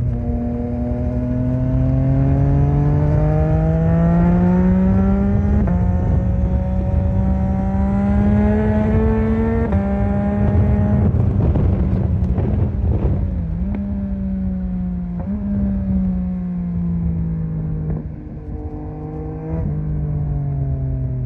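A Yamaha MT-09's three-cylinder engine accelerating through the gears: the pitch rises, then drops at an upshift about six seconds in and again at about ten. After a rougher, noisier stretch the revs fall as the bike slows, with short jumps in pitch near the end as it shifts down.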